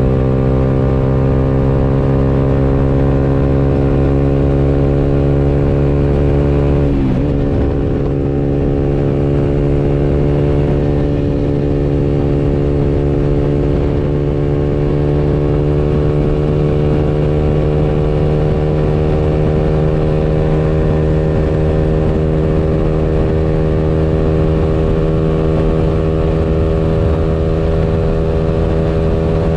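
Motorcycle engine running under way, heard from on board. Its pitch sinks slowly, drops sharply and briefly about seven seconds in, then holds steady and climbs gently.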